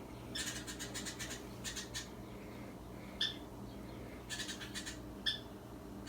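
A juvenile barn owl clicking in quick runs of sharp clicks, with a few short, sharp squeaky notes between them.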